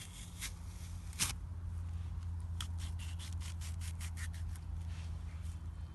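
Apple corer being pushed and twisted through a raw apple: scraping and rubbing, a sharp crunch about a second in, then a quick run of short crisp crunches in the second half as the blade cuts out the core.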